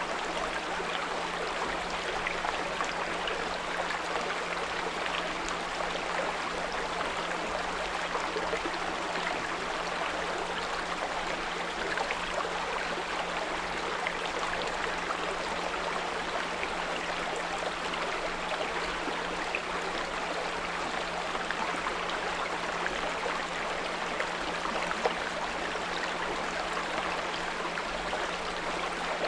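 A small brook running steadily over stones, with a steady low 174 Hz pure tone humming underneath.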